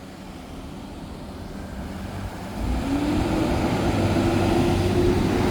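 A motor vehicle approaching, growing steadily louder; its engine note rises in pitch about two and a half seconds in and then holds steady.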